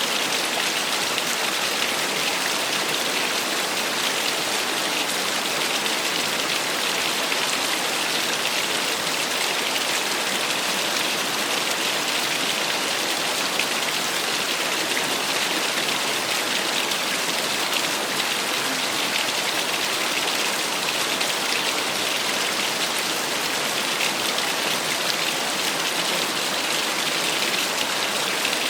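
Small waterfall splashing steadily, a constant hiss of falling water without change.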